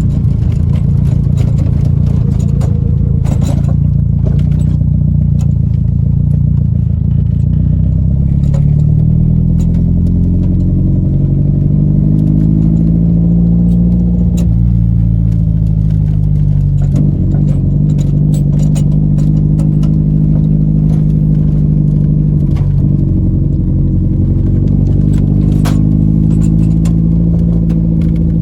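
Car engine running, its pitch rising slowly and falling again as the car speeds up and slows, with scattered rattles and clinks of loose items over it.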